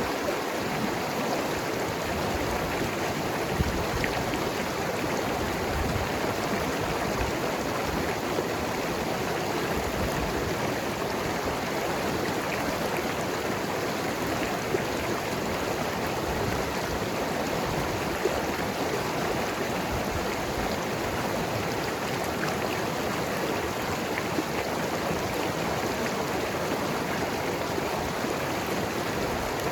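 Mountain river flowing and gurgling over rocks: a steady rush of water with small splashes here and there.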